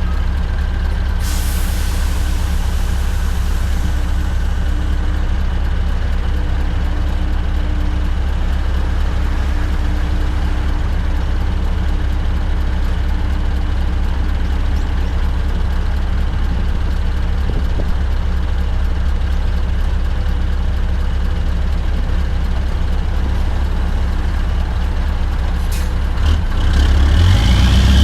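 Straight-piped Scania R580 V8 truck engine running steadily at low revs, with a short hiss of air about a second in and again near the end. In the last couple of seconds the revs climb.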